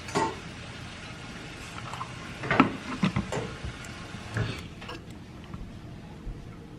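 Scattered clinks and knocks of kitchenware being handled, a cup or glass and things being set down, with the loudest knock about two and a half seconds in.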